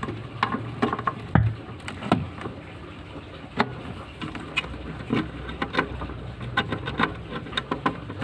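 Irregular light clicks and knocks from objects being handled and set down on a work surface, one to three a second, some sharper than others.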